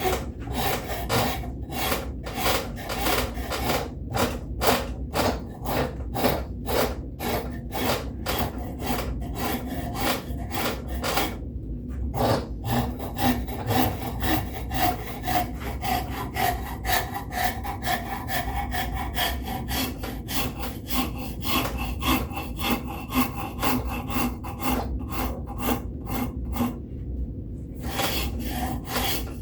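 A hand rasp being worked back and forth over a wooden handle to shape it, in rapid, even scraping strokes of about two to three a second, with two brief pauses.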